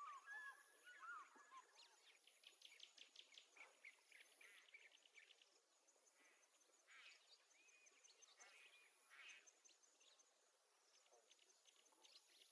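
Faint bird calls: scattered quick chirps, rapid trills and short rising and falling whistles.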